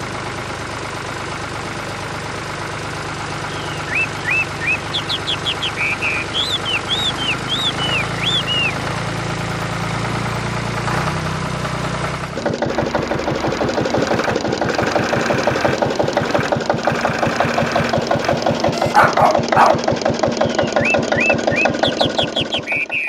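Tractor engine running with a steady rhythmic beat, which changes abruptly about halfway through to a faster, busier beat. Short high chirps sound over it twice.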